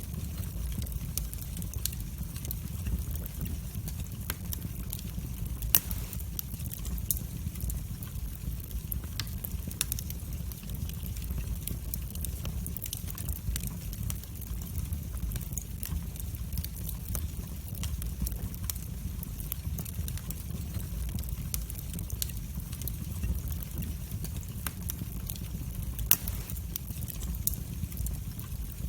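Wood fire burning in a fireplace: a steady low rumble of the flames with frequent small crackles and a couple of louder pops, about six seconds in and near the end.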